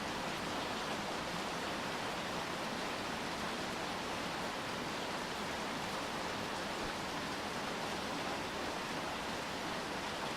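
Steady rain falling, an even hiss with no single drops, voices or other sounds standing out.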